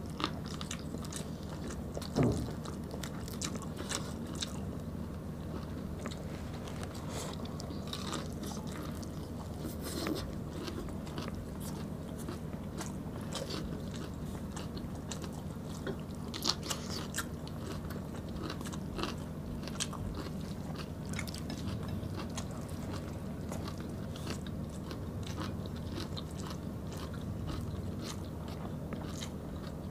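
Close-up mouth sounds of two people chewing beef stew and rice eaten by hand: wet clicks, smacks and small bites scattered over a steady low hum, with one louder knock about two seconds in.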